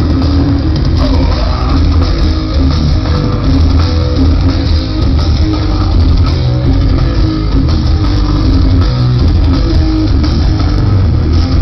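Heavy metal band playing live at full volume: a dense, unbroken wall of distorted guitar with heavy bass underneath.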